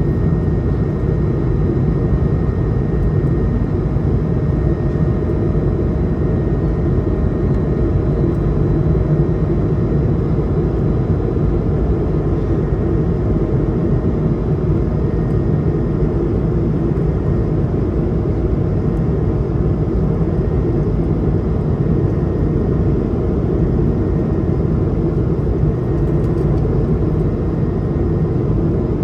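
Steady drone of engines and airflow inside the cabin of an Airbus A220-100 in flight, with its Pratt & Whitney PW1500G geared turbofans. The sound is a low rumble with a faint thin whine above it.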